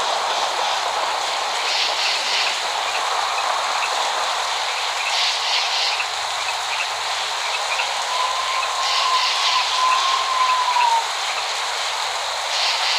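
Steady rain, a continuous hiss with no thunder. Short, higher hissing bursts come every three to four seconds, and a thin whistling tone sounds for about three seconds in the second half.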